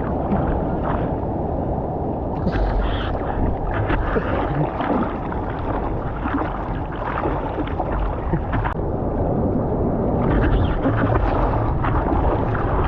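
Seawater sloshing and splashing around a surfboard in the surf, a steady rushing wash broken by frequent small splashes.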